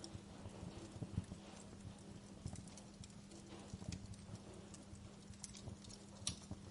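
Fireplace crackling: irregular small snaps and pops over a soft low rumble, with a steady low hum beneath.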